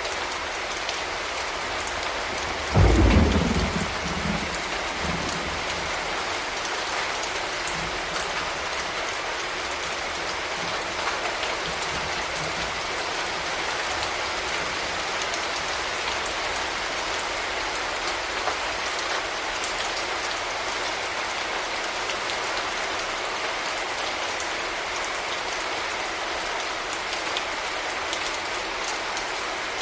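Steady rain falling, with one loud low rumble of thunder about three seconds in that fades within a couple of seconds.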